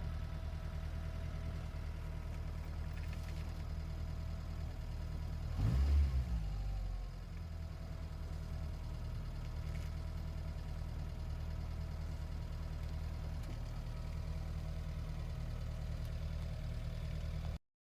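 A vehicle engine idling steadily, with a brief surge about six seconds in; the sound cuts off suddenly near the end.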